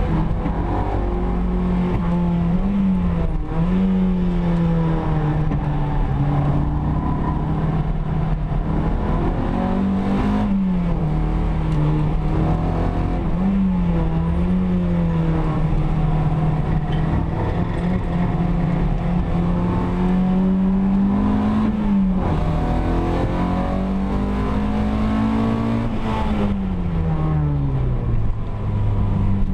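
Opel Kadett GT/E's four-cylinder engine heard from inside the cabin, running hard at fairly steady revs with several brief dips and rises in pitch. Near the end the revs fall away as the car slows.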